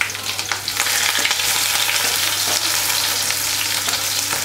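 Pointed gourd (parwal) pieces sizzling steadily in hot mustard oil and cumin in a kadhai, stirred with a wooden spatula. The sizzle grows a little about a second in.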